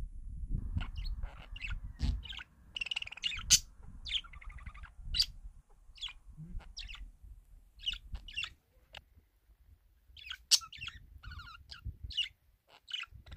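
Small birds chirping in short, separate calls, scattered irregularly, over a low rumble that is strongest in the first few seconds.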